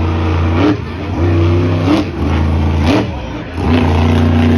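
Monster truck engine being revved hard and repeatedly, dropping off and climbing back up roughly once a second.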